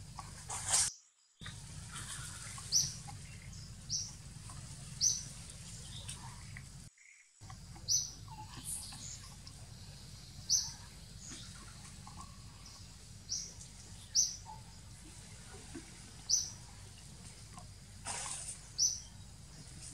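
A forest bird repeating a short, high chirp roughly once a second over a steady background hiss. The sound drops out completely twice for a moment, and a brief rustling noise comes near the end.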